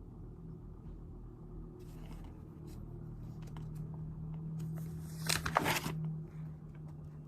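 Paper and small objects being handled on a desk: scattered light rustles and clicks, then a brief louder burst of rustling about five seconds in, over a low steady hum.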